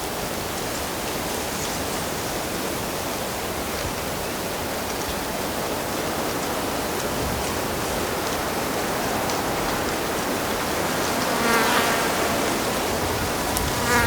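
Steady rush of a stream or small waterfall, with a flying insect buzzing close past the microphone about twelve seconds in and again briefly at the very end.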